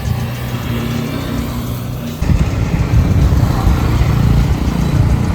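Motorcycle riding along the road: engine and road noise, getting suddenly louder about two seconds in.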